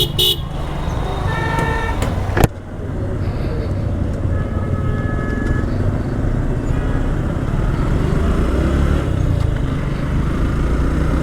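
Motorcycle riding through road traffic: a steady engine and road rumble, with a vehicle horn sounding briefly twice, at about one and a half and five seconds in, and a sharp click about two and a half seconds in.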